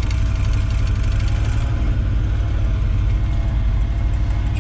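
360 V8 engine of a 1973 Ford F-250 running steadily, a deep, even drone. The owner says its carburetor won't let it run on idle.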